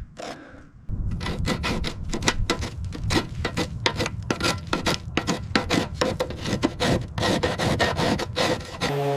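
Quick back-and-forth rasping strokes of a hand tool scrubbing rusty metal, about three strokes a second. They start about a second in.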